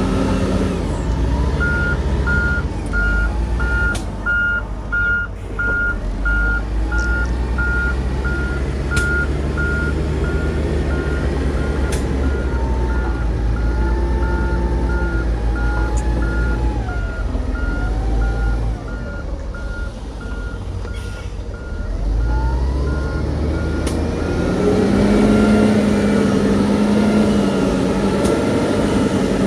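A heavy construction vehicle's reversing alarm beeping steadily at an even pace, over the low, continuous running of a diesel engine. The beeping stops a few seconds before the end, and the engine then grows louder.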